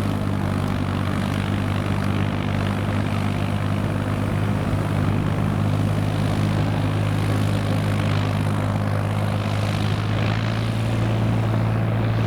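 Kubota M5000 tractor's diesel engine running steadily under load while driving a Zippo rotary tiller through the soil, a constant low drone. The engine still sounds quiet, a sign that it is in good condition.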